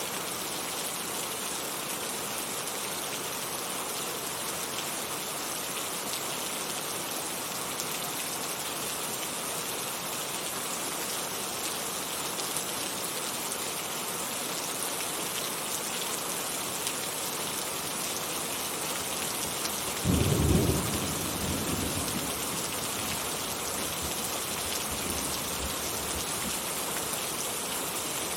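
Heavy rain falling steadily, with a clap of thunder about two-thirds of the way through that rumbles low and dies away over a few seconds.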